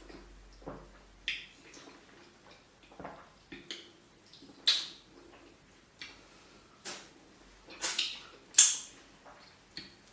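Close-miked eating sounds from a mukbang of tilapia fish pepper soup and pounded yam: scattered wet mouth and chewing noises, with the loudest about halfway through and twice near the end.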